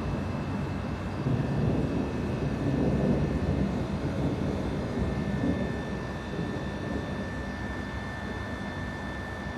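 Distant thunder rolling as a deep rumble that slowly dies away.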